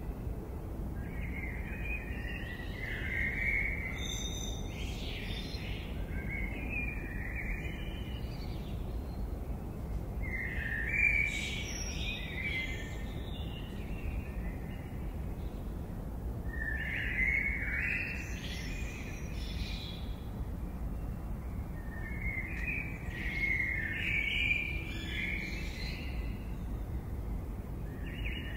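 Birds singing in bouts of chirping song a few seconds long, coming roughly every six seconds, over a steady low background rumble.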